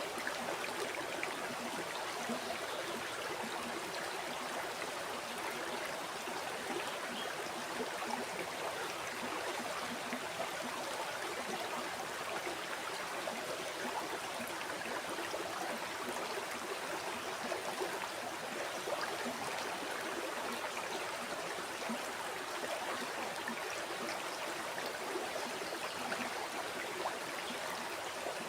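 River water flowing and babbling steadily, an even rush of water with small splashes and gurgles throughout.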